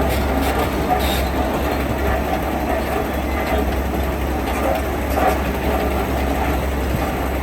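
Heavy diesel construction machinery running steadily, with a strong low rumble and a few faint knocks about a second in.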